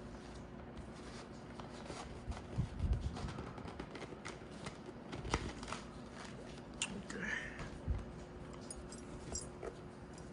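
Rustling, clicking and a few soft knocks as motorcycle helmet padding is handled and pushed back into the helmet shell.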